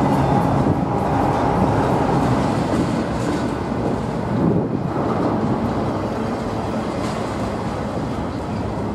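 Double-stack intermodal freight train's container well cars rolling past close by: a steady rumble of wheels on rail.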